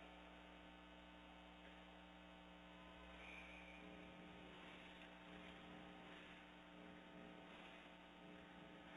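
Near silence: a faint steady electrical hum over low background hiss.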